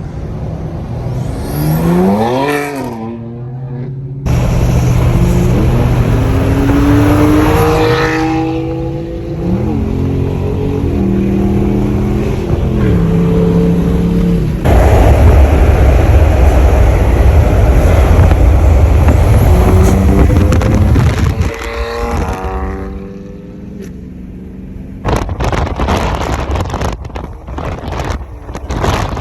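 BMW M4's twin-turbo straight-six running through ARM resonated downpipes and a VRSF single mid pipe, accelerating hard several times, its pitch climbing and then dropping in steps at the gear changes. A run of sharp cracks comes near the end.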